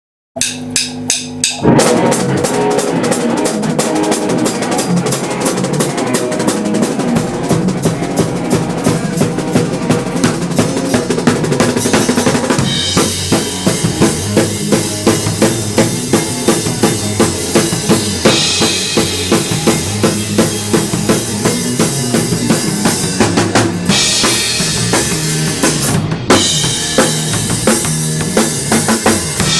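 A band playing with a drum kit: after a brief silence, a few sharp drum hits lead into the full band, carried by a steady bass drum and snare beat. About halfway through, the cymbals and high end get brighter and fuller.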